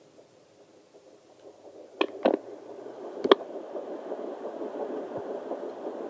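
Sonoline handheld fetal doppler's speaker hissing and crackling as the gel-covered probe is worked over the belly while searching for the fetal heartbeat. Three sharp knocks come from handling the probe about two and three seconds in, and the hiss then grows louder and denser.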